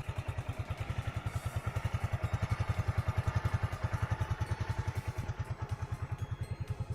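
A vehicle engine running steadily with a quick, even pulsing beat, about a dozen beats a second.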